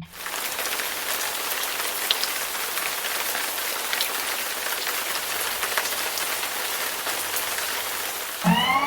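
A steady hiss full of tiny crackles and patters, like rain falling on a surface. Near the end, a short, loud pitched sound with several stacked tones bends upward in pitch.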